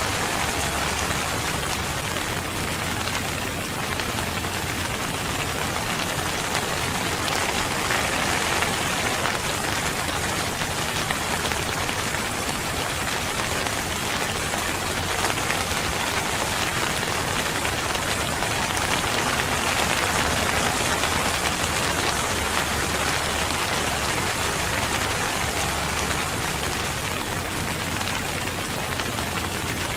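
Steady rainfall, an even hiss of rain that holds at the same level throughout.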